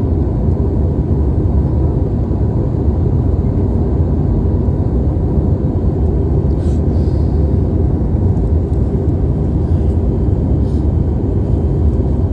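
Steady low rumble of an airliner in flight, the engine and airflow noise heard inside the cabin.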